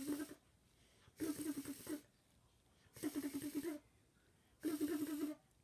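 A child's voice making a buzzy, rapidly pulsing nonsense sound in four short bursts, each under a second, evenly spaced with short pauses between: mock gibberish rather than real words.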